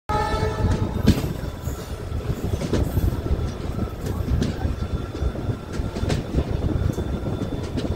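Passenger train coaches running along the track, heard from an open coach doorway: a steady rumble of wheels on rails with irregular clicks and clanks, and a faint wheel squeal as the train rounds the curve.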